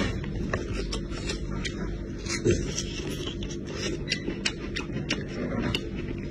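A person chewing cooked sheep's head meat with the mouth closed. Wet chewing and lip-smacking make many short, sharp clicks at an uneven pace, over a steady low hum.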